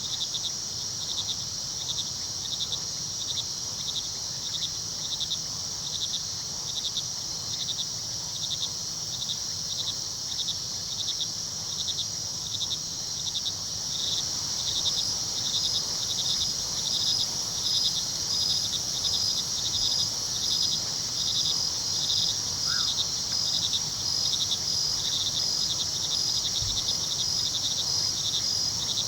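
A night chorus of crickets: a steady high trill with one cricket's chirps repeating at an even pace, and a second, slightly higher chirping joining about halfway through. A low, even rush of the river runs underneath.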